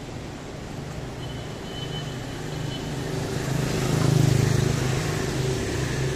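A motor vehicle passing close by in street traffic: its engine hum grows louder to a peak about four seconds in, then eases off.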